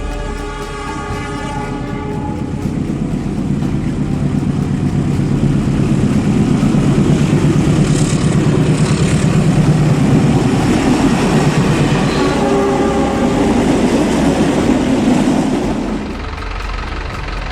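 Train rolling past with a steady rumble and clatter of wheels on track. It grows louder over the first few seconds and eases off sharply about sixteen seconds in.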